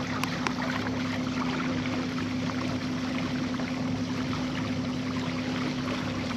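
Small river boat's outboard motor running at a steady speed, a constant hum, with water rushing past the hull.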